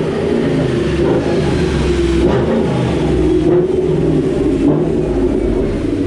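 Ford Mustang V8 with a Cobra Jet intake manifold running hard on a chassis dyno during a pull. A faint whine falls in pitch through the second half.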